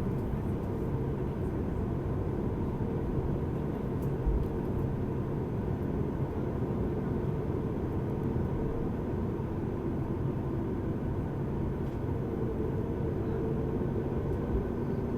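Steady low cabin rumble inside a Boeing 737 MAX 8 on the ground after landing, with a brief low thump about four seconds in.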